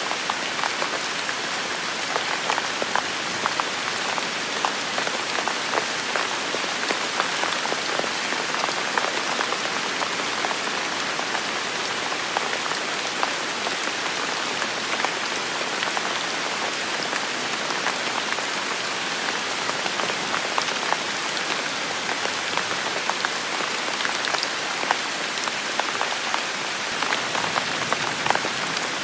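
Heavy rain falling steadily, a dense hiss with many separate drops tapping close by.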